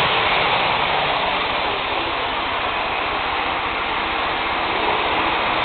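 Hornby model Class 47 locomotive running fast along the track: a steady, even rushing noise from its motor and wheels.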